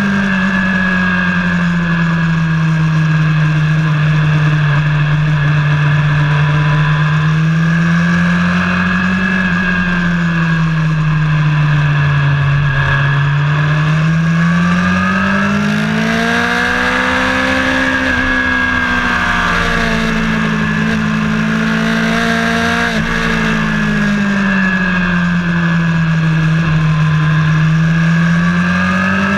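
A vehicle engine on track laps, speeding up and easing off in long, smooth swells of pitch, highest a little past halfway.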